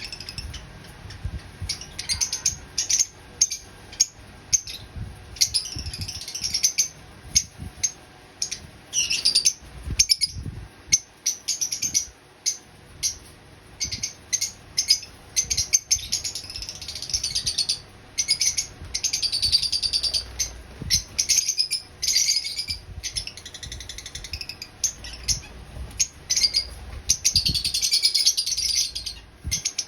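Lovebirds chirping and chattering: a dense, irregular run of short, high chirps, broken by a few longer chattering calls.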